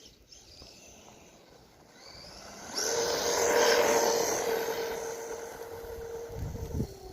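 Brushless 550 motor of a Traxxas Rustler 4x4 RC truck on paddle tires, whining at a steady pitch as the truck runs at speed through snow. The tires churn a rushing hiss of snow. It comes up suddenly about three seconds in, then fades as the truck drives off, and the whine stops near the end.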